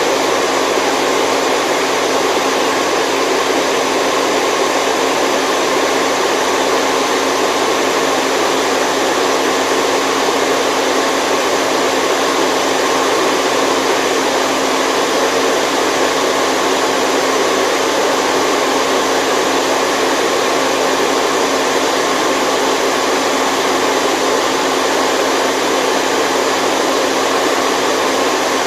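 Steady, unchanging white noise for sleep: an even rushing hiss with little deep bass, like a hair dryer or fan.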